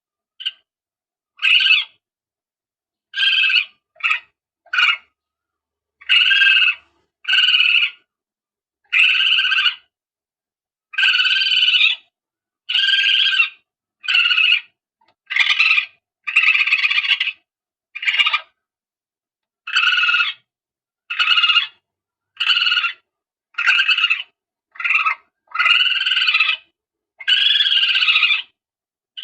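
Recorded palm civet calls used as a hunting lure: about twenty short, shrill calls, each under a second to about a second long, repeating every second or so with dead silence between them.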